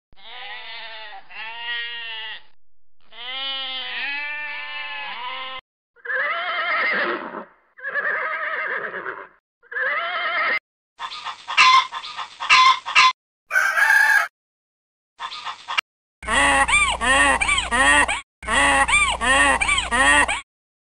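A string of separate farm-animal calls with abrupt cuts between them: a sheep bleating at the start, then horse calls with a few loud sharp snorts in the middle, and a donkey braying in two long brays near the end.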